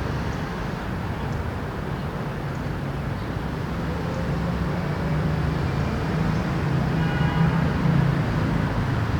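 Steady city traffic hum with a motor vehicle's low engine drone swelling as it passes, loudest in the second half.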